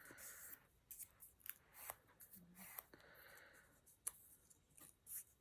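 Faint handling of paper card: a few light clicks and short rustles, quiet enough to be close to silence.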